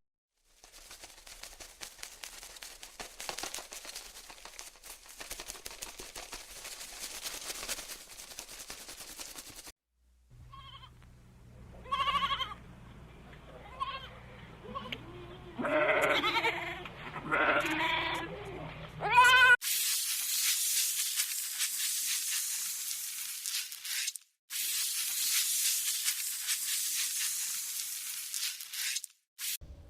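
Farm animals bleating: a series of wavering, pitched calls in the middle stretch, between stretches of steady hiss-like background noise.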